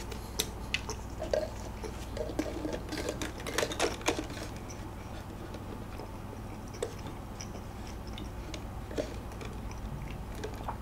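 Close-miked chewing and wet mouth clicks from eating a baked donut, busiest in the first four seconds, then thinning to a few scattered small clicks.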